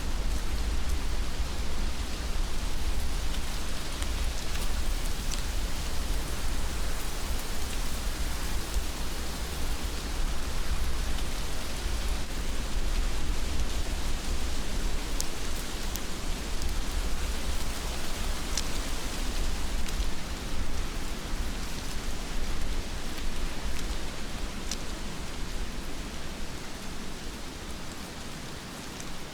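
Heavy rain falling steadily, a dense hiss with scattered drop ticks, over a deep low rumble that fades away near the end.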